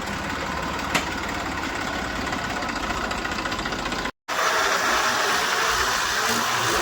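Diesel engine of earthmoving machinery, a backhoe loader or farm tractor, running steadily with a low rumble and a sharp click about a second in. The sound cuts out for a moment just after four seconds, then the engine comes back louder.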